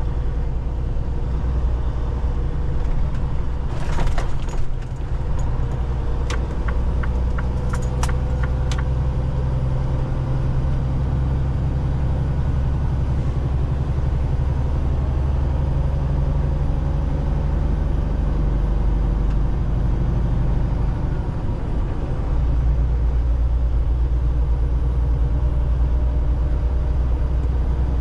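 Semi-truck engine and road noise heard inside the cab while driving: a steady low drone. A short run of evenly spaced clicks comes about six to nine seconds in, and the low drone shifts and grows stronger about two-thirds of the way through.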